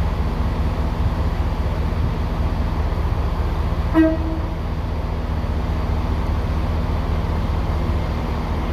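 A train's horn gives one short toot about four seconds in, over the steady low rumble of a train standing at the platform with its engine running.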